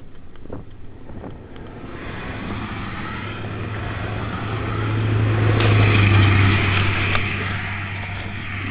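A car engine, a steady low hum that swells over a few seconds, loudest about six seconds in, then eases off.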